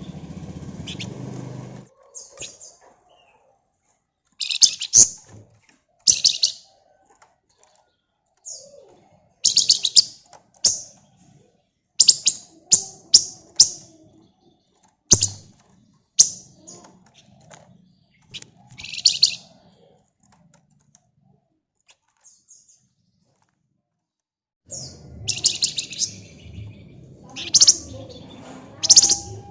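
Flamboyan (wergan Jawa) songbird singing: short bursts of high, quick-fire notes, repeated in phrases with pauses between them. A low background noise sits under the song in the first two seconds and again in the last few seconds.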